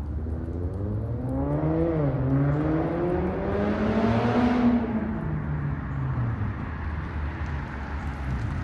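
Infiniti M35h's 3.5-litre V6 through a resonator-deleted exhaust, accelerating. The engine note climbs, drops briefly at a gear change about two seconds in, climbs again, then falls away as the throttle is lifted about five seconds in.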